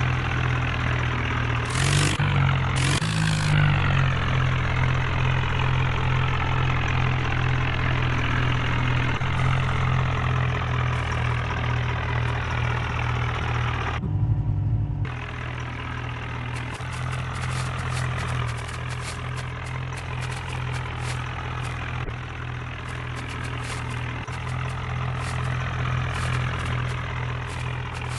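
HMT tractor's diesel engine running steadily at a low, even speed. Two short bursts of noise come about two and three seconds in, and in the second half quick faint clicks sound over the engine.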